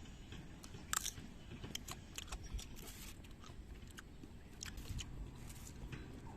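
A person biting into and chewing crisp Indian jujube fruit, with irregular crunchy clicks; the sharpest crunch comes about a second in.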